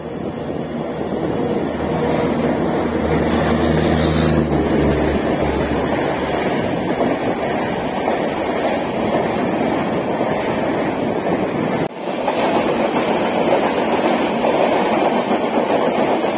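Passenger train being shunted through a station, passing close below: a steady low hum from the locomotive for the first few seconds, then a steady rumble of coach wheels rolling on the rails. The rumble drops briefly about twelve seconds in, then carries on.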